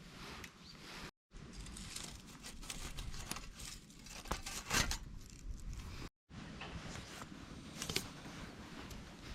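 Dry grass and twigs burning in a small titanium pocket stove, crackling irregularly with a few sharper snaps about halfway through. The sound drops out completely twice for a moment.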